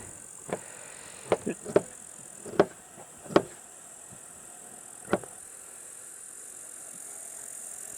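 A series of about seven sharp knocks or clacks at irregular intervals over the first five seconds, the loudest a cluster between one and four seconds in. A steady high hiss runs underneath.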